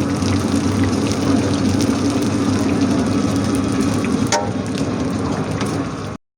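Mutton sizzling and crackling in a karahi over a burner, with a steady low hum underneath and one sharp metallic clank about four seconds in. The sound cuts off abruptly near the end.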